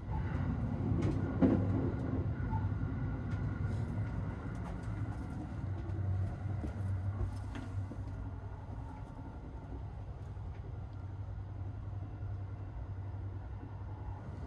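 Steady low rumble of the Sunrise Izumo sleeper train, a 285 series electric train, heard from inside the car as it runs. A sharp knock about a second and a half in, and scattered light clicks.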